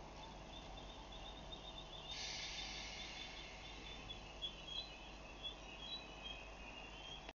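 A small bird chirping in quick, evenly repeated high notes over a faint, low steady hum. A hiss comes in about two seconds in and fades out a couple of seconds later.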